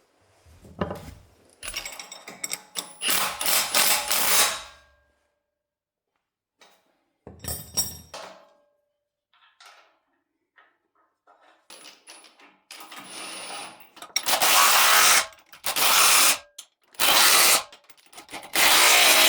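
A handheld power tool run in repeated bursts: one of about three seconds, a short one, then four runs of about a second each near the end, with pauses between.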